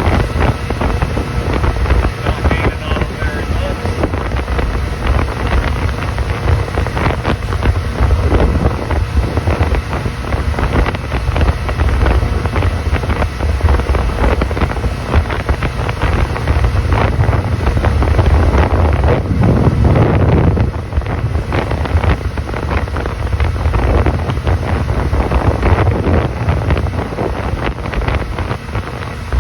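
A 26-foot Rendezvous motorboat under way at night, its engine and water noise running continuously under heavy wind buffeting on the microphone.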